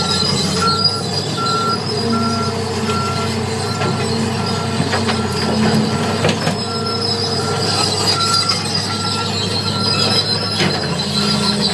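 Heavy diesel earthmoving machinery running at a steady working pace while a backup alarm beeps over it at an even pace of a bit more than one beep a second. There is a high squealing note over it and a few metallic clanks around the middle and near the end.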